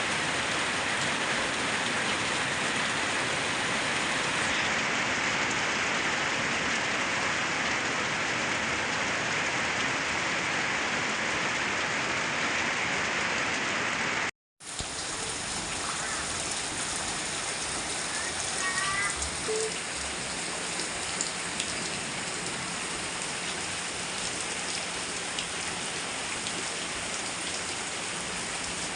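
Heavy rain falling steadily, an even continuous hiss of rain on surfaces. About halfway it cuts out for a moment and comes back slightly quieter.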